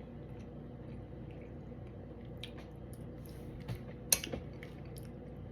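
A person chewing fish, with soft wet mouth sounds and a few small clicks, the sharpest about four seconds in, over a faint steady hum.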